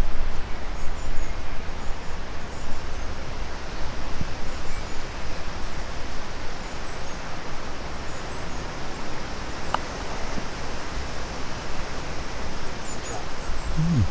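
Steady outdoor noise with a low rumble of wind on the microphone, broken by a single sharp click about ten seconds in.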